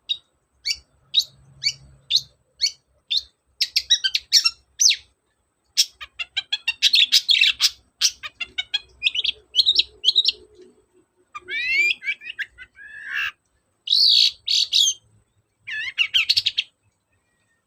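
Long-tailed shrike singing loudly: sharp, high single notes about one or two a second, then rapid jumbled chattering phrases and some downward-sweeping notes, before the song stops near the end.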